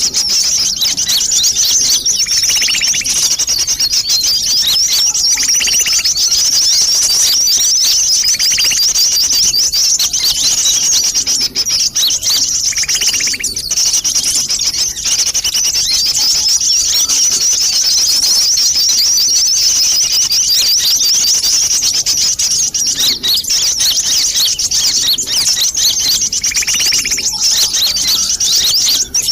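Bird-lure recording for sunbirds: a dense, unbroken, high-pitched chattering of many small birds, with a short lower call breaking in every few seconds.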